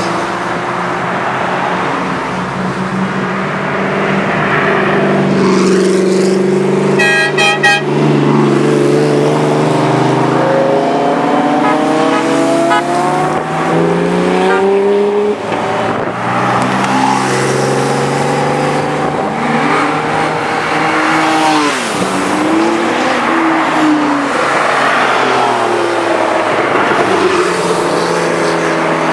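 Several supercar engines running and revving in a slow-moving procession, their pitch rising and falling again and again, with a quick series of short car-horn toots about seven seconds in.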